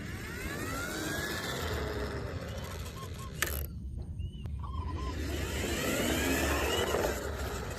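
Something on wheels rolling past twice, the noise swelling and fading each time, once in the first half and again, louder, in the second half.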